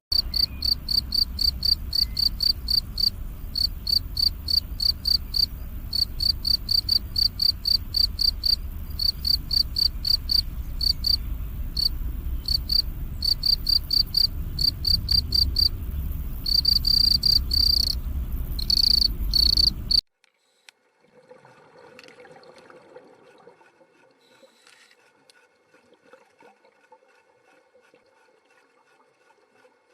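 An insect, cricket-like, chirping in quick, regular high-pitched pulses, about three to four a second in runs, over a low rumble. The chirping cuts off abruptly about two-thirds of the way through, and only faint sound follows.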